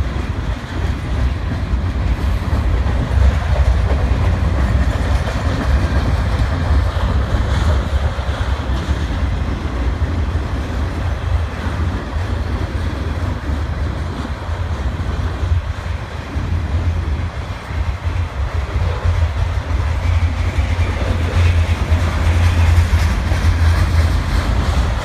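Freight cars of a CN freight train rolling past at close range: the steady, deep noise of steel wheels running on the rails, car after car.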